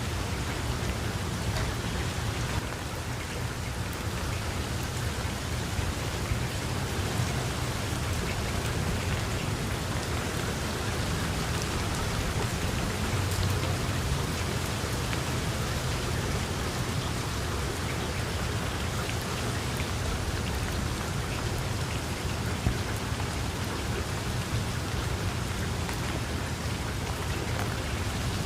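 Heavy rain falling steadily, an even hiss with scattered sharp drop ticks and a low rumble underneath.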